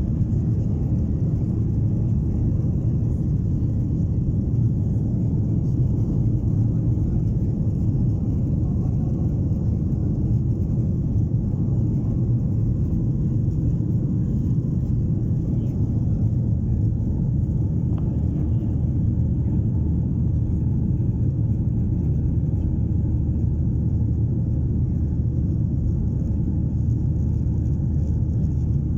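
Steady low rumble of an airliner's engines and airflow heard inside the passenger cabin, with a faint steady hiss above it and no change in level.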